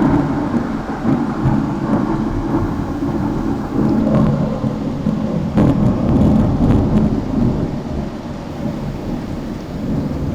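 A long roll of thunder rumbling and slowly dying away, with rain falling; a couple of sharper cracks come about five and a half seconds in.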